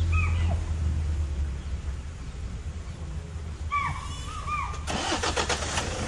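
Safari jeep's engine idling as a low rumble that eases off after about a second and a half. A bird calls in short whistled notes that curve up and down, once near the start and again in a quick series later. Near the end comes a rapid rattle of clicks lasting about a second.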